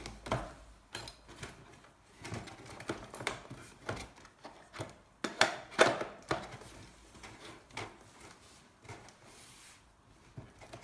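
Irregular clicks, knocks and light rattles of hand work on e-bike parts, loudest about five and a half to six seconds in.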